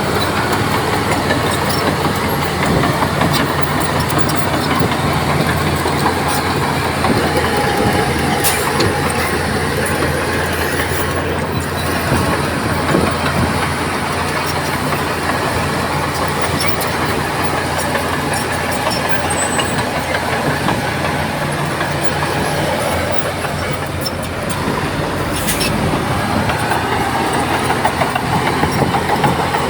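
Crawler bulldozer's diesel engine running steadily under load, with the clatter of its steel tracks and two sharp metallic clanks, one about a third of the way in and one near the end.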